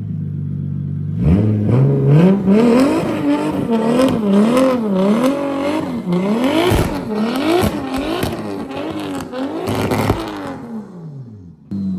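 Turbocharged 1JZ inline-six of a Toyota Chaser JZX100 idling, then revving hard about a second in, the revs swinging up and down over and over, roughly once a second. Near the end the revs fall away and the engine goes quiet briefly before idling again.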